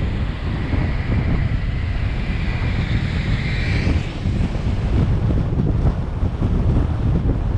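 Wind buffeting the microphone over the steady rumble of a car driving along the road. A fainter whine rises slowly over the first few seconds, then fades.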